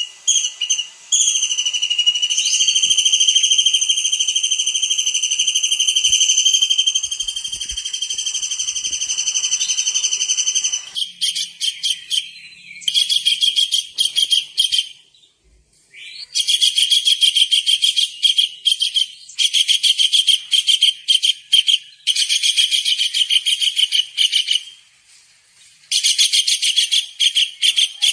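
Kingfisher calls: a long, steady, high whistle held for about ten seconds, then bursts of rapid, trilled repeated notes with short gaps between them.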